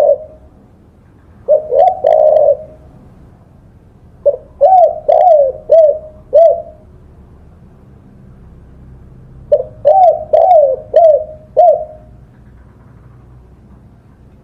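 Spotted dove (tekukur) cooing in three phrases of short coos, each rising then falling in pitch: a brief phrase about two seconds in, then two longer phrases of about five coos each, around five and ten seconds in.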